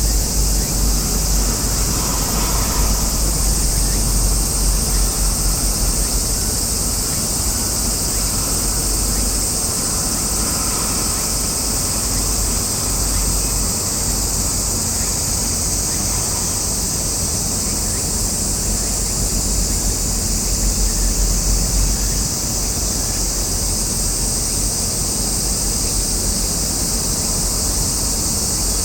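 Steady outdoor ambience: a constant high-pitched drone, like a summer insect chorus, over an uneven low rumble of wind on the microphone.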